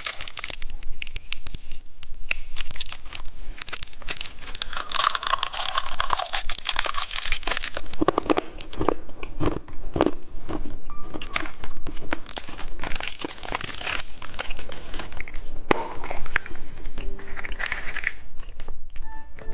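Close-up plastic candy wrapping crinkling and tearing, mixed with crisp crunching of candy being bitten and chewed.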